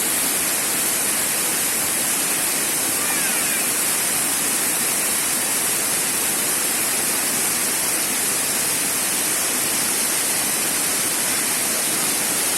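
Shumka Waterfall's falling water, a steady, dense roar of noise. A few faint high chirps sound about three seconds in.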